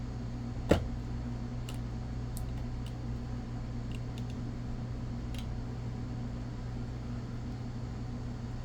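Small parts of an HO-scale model locomotive being handled at a workbench. There is one sharp click about a second in, then a few faint light ticks, over a steady low hum.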